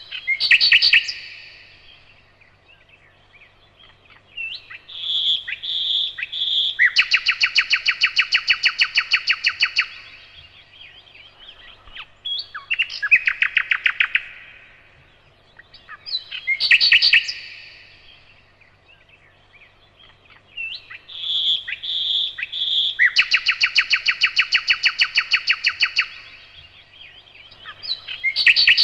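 A nightingale singing in separate phrases with short pauses between them. The phrases mix a few clear whistled notes with long, very fast trills and rattles of repeated strokes, and the same sequence of phrases comes round again about halfway through.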